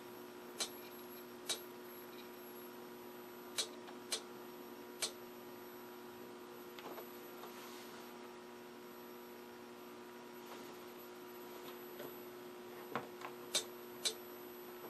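Philco Predicta Princess tube television chassis running on the bench with a steady hum, broken by sharp crackling snaps, about five in the first five seconds and three more near the end. The crackles are the sign of high-voltage arcing somewhere in the set.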